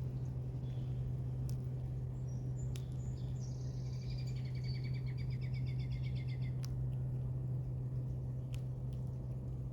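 A songbird sings one rapid trill of quickly repeated notes lasting about three seconds, starting a few seconds in, over a steady low hum. A few sharp clicks fall here and there.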